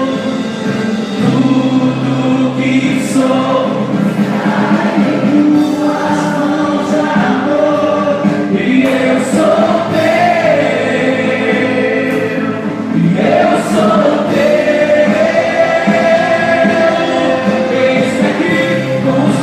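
Congregational worship music: a group of voices singing a gospel song over sustained instrumental accompaniment.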